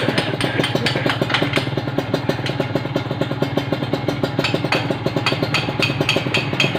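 Kawasaki Ninja RR two-stroke single-cylinder engine idling steadily through an AI Tech racing exhaust, a fast even train of exhaust pulses; the silencer has been repacked with new glasswool.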